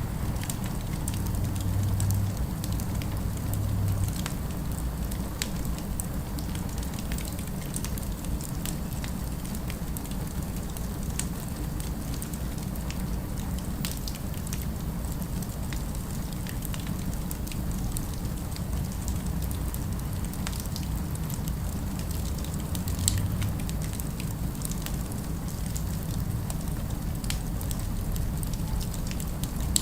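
Fireplace crackling with scattered small pops, one slightly louder pop about 23 seconds in, over a steady low city rumble.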